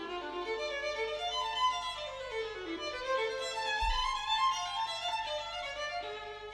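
Violin music: a violin playing quick runs of notes that climb and fall. There is a brief low thump about four seconds in.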